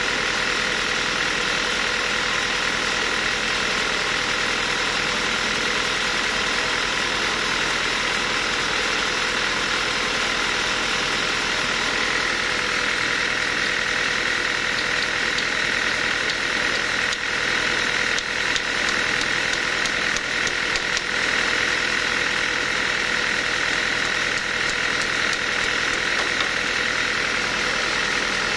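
Sawmill machinery running steadily: a continuous mechanical drone with a steady high whine, and a few faint knocks about two-thirds of the way through.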